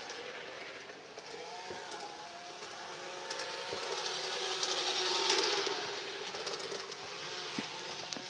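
G-scale garden model train running along the track, its motor and wheels humming with a faint whine. It grows louder to a peak about five seconds in and then fades a little.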